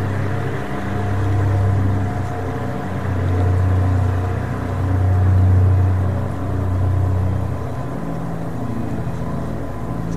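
Low, droning suspense score: a deep bass note that swells and fades about every two seconds, with a faint steady high tone held above it.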